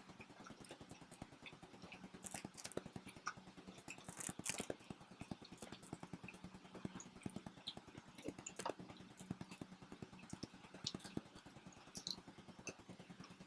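Close-miked chewing and mouth sounds of people eating pizza: irregular small smacks and clicks, with a faint steady hum underneath.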